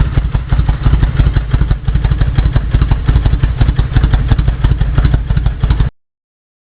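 Kawasaki VN1500 Classic's V-twin running at a steady idle through aftermarket Vance & Hines exhaust pipes, a loud, even pulsing beat. The sound cuts off abruptly about six seconds in.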